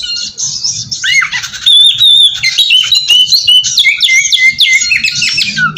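Oriental magpie-robin (kacer) in full song: a loud, unbroken run of varied whistles, upslurred and downslurred notes and quick chattering phrases.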